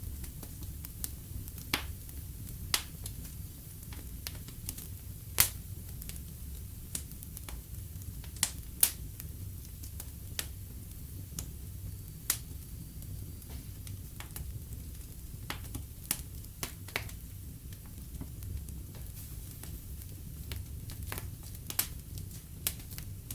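Wood fire burning in a fireplace: irregular sharp crackles and pops over a low, steady rumble of flame. The loudest pops come about five and nine seconds in.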